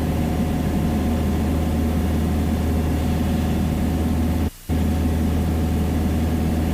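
Piper Dakota's six-cylinder Lycoming engine and propeller droning steadily in cruise, heard from the cockpit. The whole sound cuts out for a fraction of a second about four and a half seconds in.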